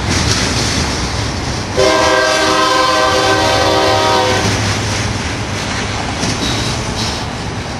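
Locomotive air horn sounding one long blast of about two and a half seconds, starting abruptly about two seconds in, over the steady rumble and rail noise of a passing BNSF container train.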